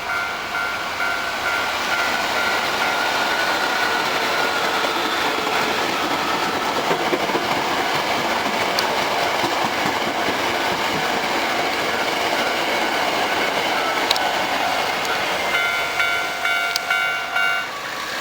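Eight-car Hankyu electric commuter train running past at a level crossing: a steady rush of wheels and motors with a few sharp clicks, while the crossing bell keeps ringing. Near the end the train sound thins and the bell comes through clearly.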